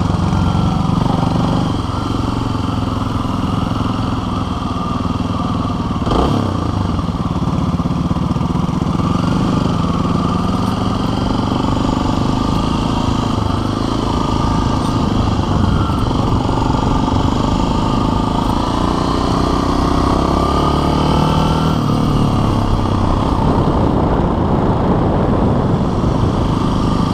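Motorcycle engine running at low speed through a cone weave, its pitch rising and falling as the throttle is opened and closed. A single sharp knock about six seconds in.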